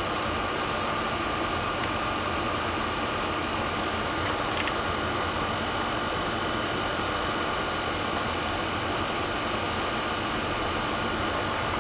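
Portable air conditioner running: a steady machine hum with a few constant high whining tones, and a couple of faint ticks early on.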